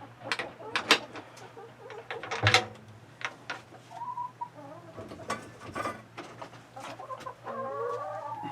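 Chickens clucking, with short calls about four seconds in and a longer call near the end, among sharp knocks and clicks of handling, the loudest about a second and two and a half seconds in.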